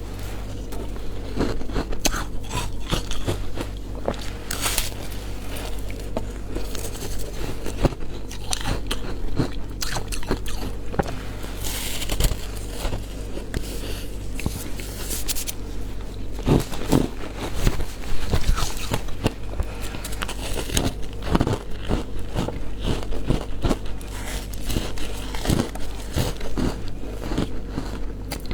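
Frozen matcha ice being bitten and chewed, with irregular sharp crunches coming several times a second and a steady low hum underneath.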